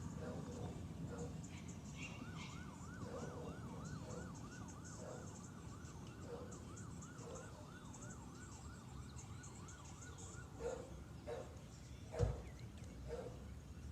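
A faint emergency-vehicle siren in fast yelp mode, its pitch wavering rapidly up and down, starting about two seconds in and stopping a few seconds before the end, over a steady hum of city traffic. A few short sharp sounds follow near the end.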